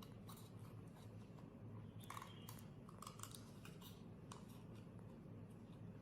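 Faint scattered clicks and brief light scrapes over a low steady hum.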